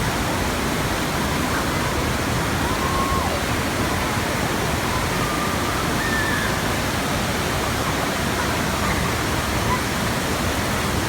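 Steady, loud rush of pumped water from a surf simulator, with faint voices in the background.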